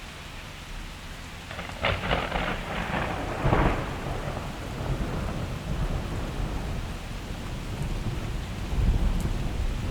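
Steady heavy rain with a close thunderclap: sharp cracking starts about two seconds in and peaks around three and a half seconds. A low rumble follows and swells again near the end.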